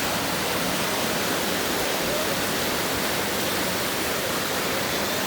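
Heavy rain pouring down, a steady dense wash of noise without a break.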